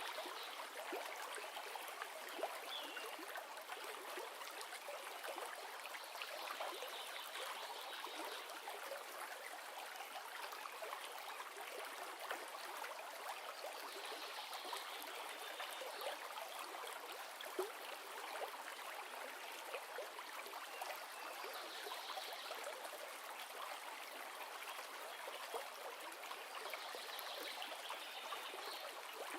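River water flowing: a steady, even rush with trickling and gurgling.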